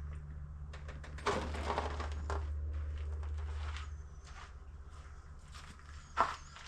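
A few knocks and scraping sounds over a steady low hum, the loudest cluster about a second in and another sharp knock near the end.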